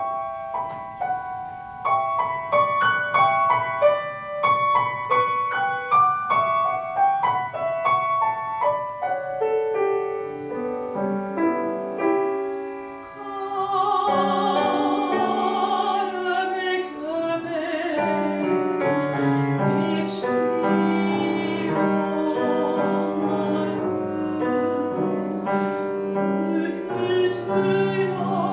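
Classical art song for soprano and piano. It opens suddenly with the piano alone playing quick, sharply struck high notes and chords. About halfway through, a soprano comes in singing with wide vibrato over the piano.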